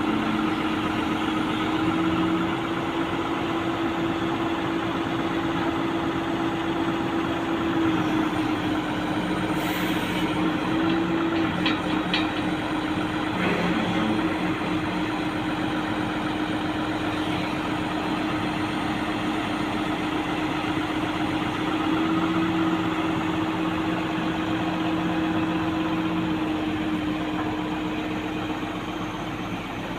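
Heavy-equipment engine idling steadily, with small rises in engine speed now and then and a few faint clicks about ten to fourteen seconds in.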